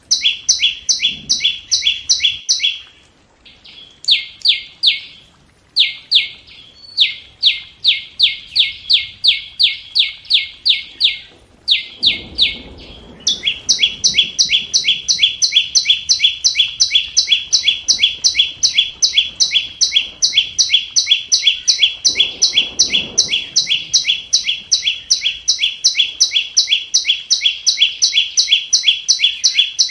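Scarlet-backed flowerpecker giving its sharp, high ticking call over and over, about four notes a second. There are a few short breaks in the first half, then an unbroken run from about halfway through.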